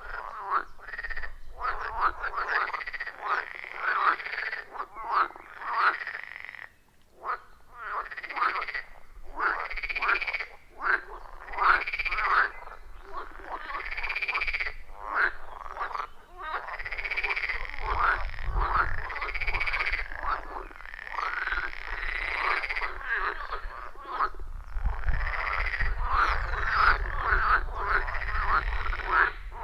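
A chorus of frogs croaking at a pond: many overlapping, repeated calls coming in bouts every second or two, with a brief lull about seven seconds in. A low rumble sits underneath in the second half.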